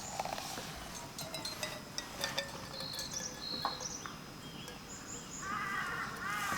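Wild birds calling: short high whistled notes, then near the end a quick run of repeated chirps, with a few faint clicks scattered through.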